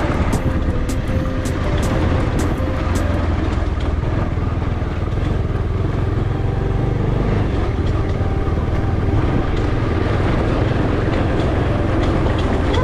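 Motorcycle running steadily while being ridden on the road, a continuous low engine and road rumble. A series of light ticks sounds over it for the first few seconds.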